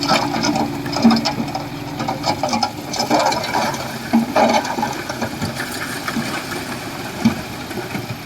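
Bulldozer at work: its engine running steadily under a stream of irregular clattering and knocking, with a few louder knocks about a second, three seconds and four seconds in.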